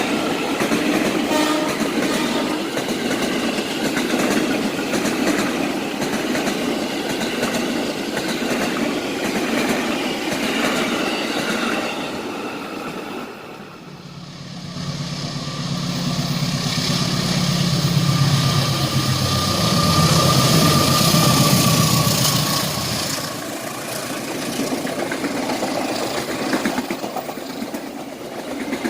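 Trains passing at speed on the line, wheels clattering over the rail joints. About halfway through, a low steady drone comes in, with a thin, slightly falling high tone over it for several seconds.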